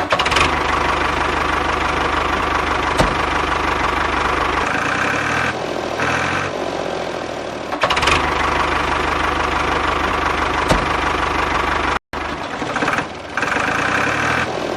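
Small motor-driven DIY mini oil expeller machine running with a steady mechanical whir and rattle. The sound is broken into several short clips that cut in and out.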